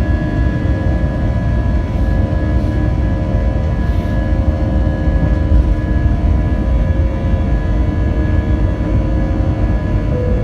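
Airbus A320 jet engines at take-off power heard inside the cabin: a loud, steady low rumble with several steady whining tones held over it, without change in level.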